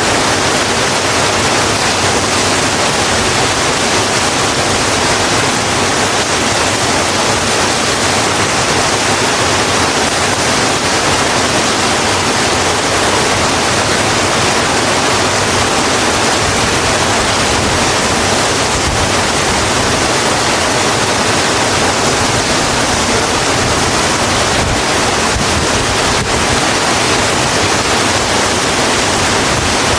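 Steady heavy rain, an even dense hiss with no let-up.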